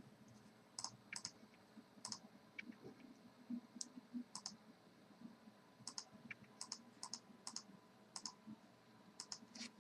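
Faint, scattered computer clicks, some in quick pairs, from a mouse and keyboard being used to reload a failed live stream, over near silence.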